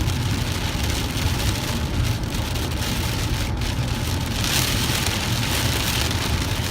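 Heavy rain pouring down in a steady, loud hiss, swelling a little about two-thirds of the way through.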